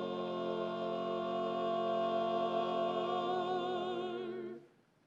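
Barbershop quartet singing a cappella, holding the song's final chord in close four-part harmony with a slight vibrato. The chord is cut off cleanly about four and a half seconds in.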